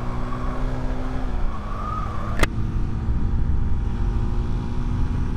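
Vehicle engine running steadily under heavy wind and road rumble while on the move. The engine note drops a little just over a second in, and a single sharp click sounds about two and a half seconds in.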